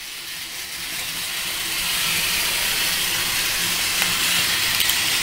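Several battery-powered toy trains running on plastic track: a steady whirring rattle of small motors and wheels, growing louder over the first couple of seconds.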